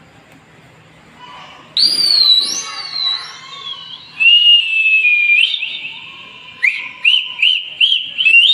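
Loud high-pitched whistling tones start about two seconds in and glide downward, then hold steady briefly. Near the end they turn into a run of short rising chirps, about two a second.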